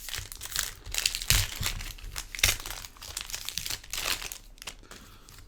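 Booster pack wrappers crinkling and crumpling as they are handled, a dense run of irregular crackles that thins out near the end.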